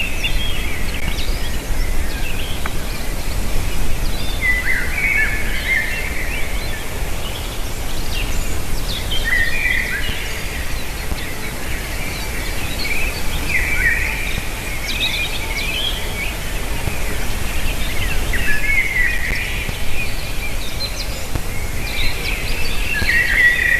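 Bird calling in repeated clusters of short, high chirps about every four to five seconds, over steady wind noise.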